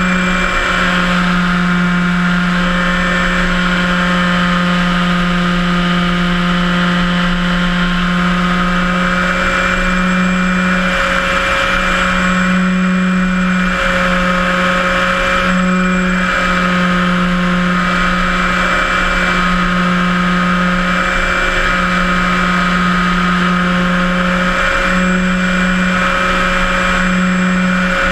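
Electric motor and propeller of a HobbyKing Cessna 182 RC model plane running steadily in flight: a constant drone that shifts slightly in pitch every few seconds.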